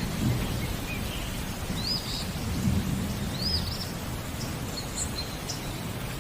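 Steady rain with low rolling thunder that swells around the middle. A bird repeats a short whistled note that rises and falls, twice, with a few higher chirps near the end.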